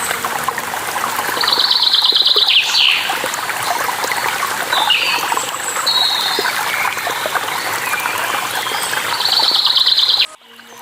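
Steady running water with songbirds chirping over it. A bird gives rapid repeated trilling phrases about a second and a half in and again near the end. The whole sound cuts out abruptly just before the end.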